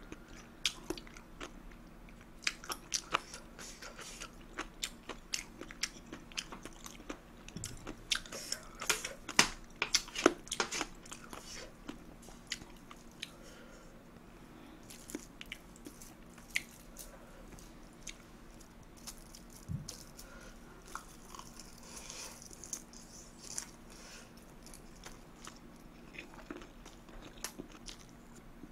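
Close-miked chewing of tuna kimchi fried rice, with wet mouth sounds and crunching, and short sharp clicks of chopsticks against the metal pan. The clicks and chewing are thickest around the middle, then thin out.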